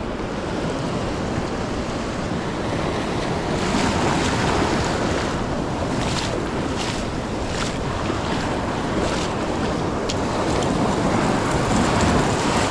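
Ocean surf washing up the beach with wind buffeting the microphone, swelling a little about three seconds in, with several brief sharp sounds mixed in.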